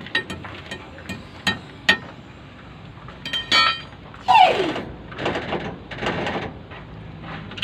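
Hammer blows on steel while working a big truck tyre off its rim, each strike ringing. Light taps come first, then louder ringing strikes, followed by a falling, scraping sound and rougher knocking.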